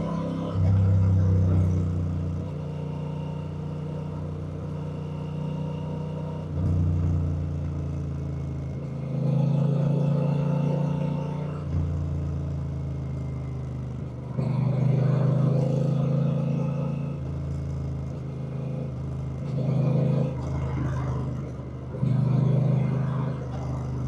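Honda Rebel 1100's parallel-twin engine running while the motorcycle is ridden, growing louder and quieter in turns about half a dozen times.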